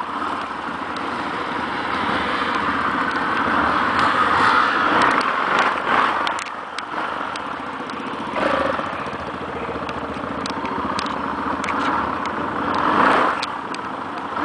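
Yamaha XT660R's single-cylinder engine running as the bike is ridden, with wind rushing over the microphone. The sound swells twice, about four to five seconds in and again near the end, as the rider opens the throttle.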